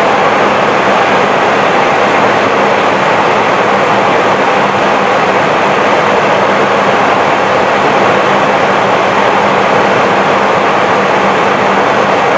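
Steady airflow and engine noise inside the cockpit of an Airbus A320 in flight, an even rushing with a low steady hum beneath it.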